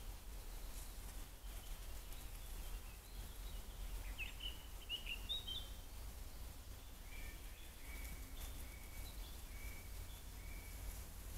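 Faint woodland birdsong over a steady low hum: a few quick chirps about four to five seconds in, then a run of short, even, repeated notes in the second half.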